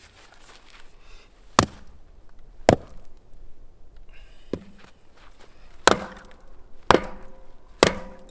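Firewood being chopped with an axe: six sharp strikes about a second apart, one lighter than the rest, the last few ringing briefly after impact.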